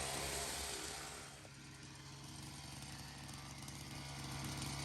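Small 49cc two-stroke dirt bike engine running with a steady buzz. It grows fainter over the first couple of seconds, then louder again toward the end.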